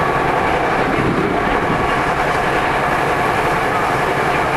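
A Tokyu 9000 series electric commuter train running, heard on board. There is a steady rolling rumble from the rails with a few faint, steady high tones over it.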